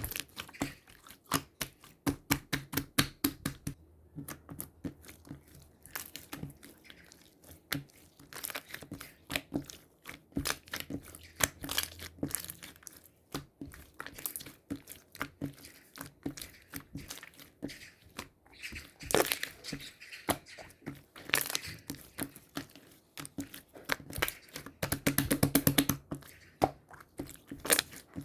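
Close handling noise: crinkling and crackling with many irregular clicks, and a fast run of clicks about 25 seconds in.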